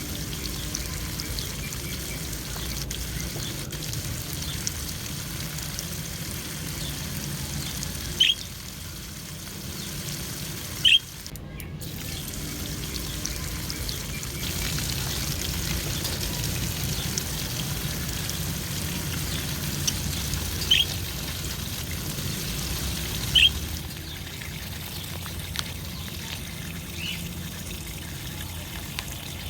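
Water trickling and pouring steadily as budgerigars bathe, with four short, sharp budgie chirps standing out above it.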